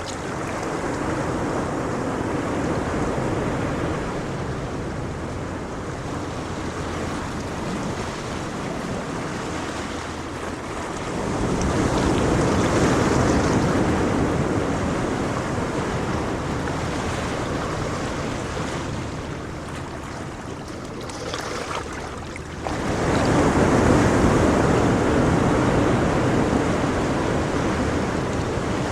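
Ocean waves washing onto a shore in a continuous surf wash, with swells about 11 seconds in and again, more suddenly, about 22 seconds in as waves break. A low rumble under it may be wind on the microphone.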